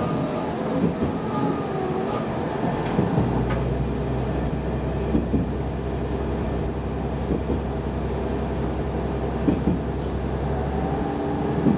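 Diesel railcar heard from inside the cabin while running: steady running noise with scattered clicks of the wheels over rail joints. A deep engine drone comes in about three seconds in and drops away near the end.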